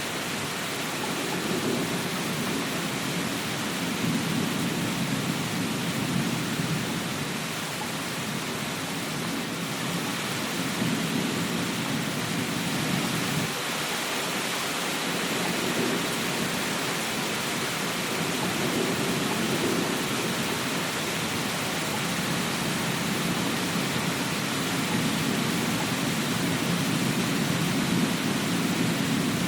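Steady rain falling, an even hiss, with a low rumble that swells and fades several times.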